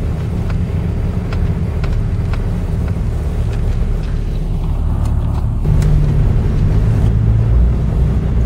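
A four-wheel-drive Jeep heard from inside the cabin while driving: a steady low engine and road rumble, with faint regular ticking over it. About two-thirds of the way through, the engine note comes up and grows louder, as under acceleration.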